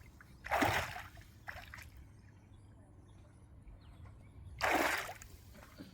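Water splashing in a river: two short splashes about four seconds apart, with a smaller slosh between them.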